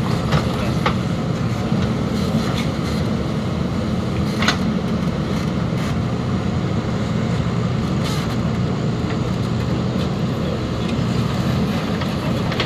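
Heavy diesel engine running steadily under work, a low drone with a few short clicks or knocks, the sharpest about four and a half seconds in.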